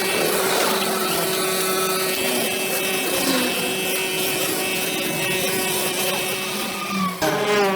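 Petrol brush cutter engine running steadily at high revs, its pitch dropping sharply near the end as the throttle is let off.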